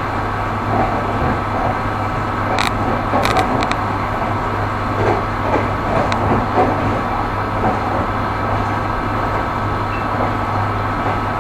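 Railway train running on the rails: a steady rumble of wheels on track with a constant low hum, and a few sharp clicks about a quarter to a third of the way through.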